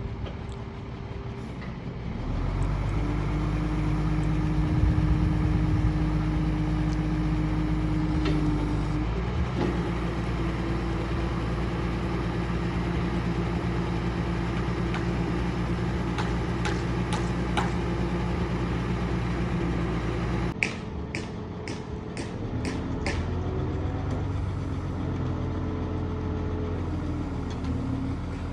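Heavy truck's diesel engine running steadily, getting louder about two seconds in and shifting in pitch partway through. A quick run of sharp clicks comes near the end.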